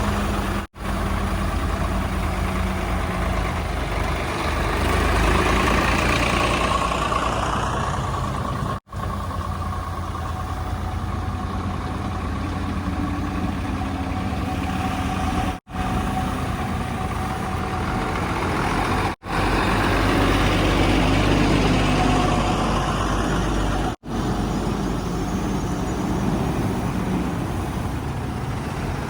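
Diesel engines of heavy machinery and trucks running steadily, heard across a string of short clips with sudden cuts between them about every four to eight seconds.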